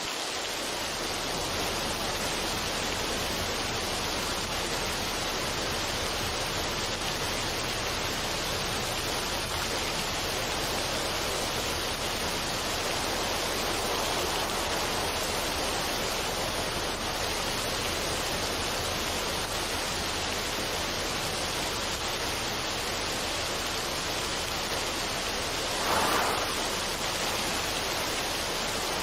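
Steady, even rushing noise, like falling water, from a relaxation soundtrack, with no music; it swells briefly near the end.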